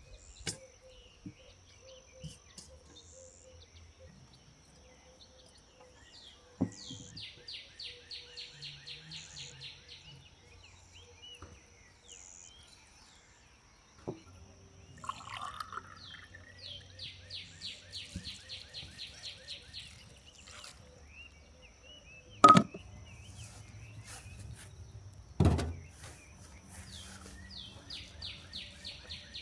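Outdoor ambience with a bird singing a fast trill of repeated high notes, about four a second, three times over, and a faint steady high hum behind it. Near the end come two sharp loud knocks about three seconds apart.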